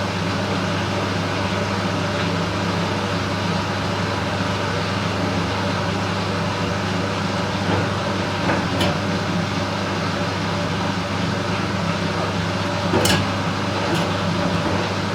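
Candy Smart Inverter front-loading washing machine running a cycle: a steady mechanical hum, with a few light clicks in the second half.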